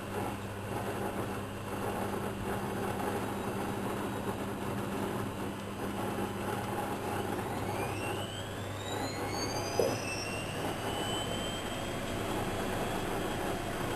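Whirlpool washing machine running with a steady low hum; about halfway through its motor whine rises in pitch as the drum speeds up, then holds a steady high tone. A single short click comes near the end.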